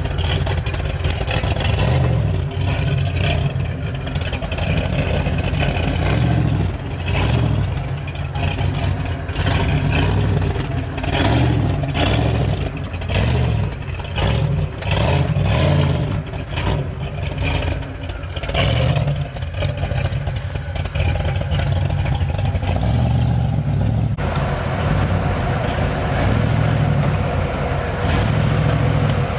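Rock-crawling buggy's engine revving in repeated surges as it climbs over boulders, the revs swelling and dropping every second or two. About 24 seconds in the sound cuts to a steadier engine note.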